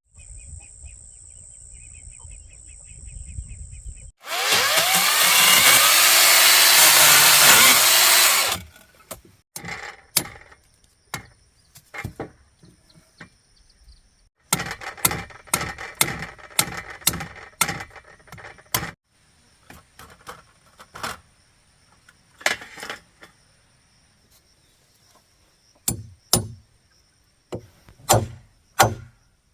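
A power tool runs loudly for about four seconds, its pitch shifting as it cuts, then a long series of irregular sharp knocks and taps from woodworking, with pauses between them.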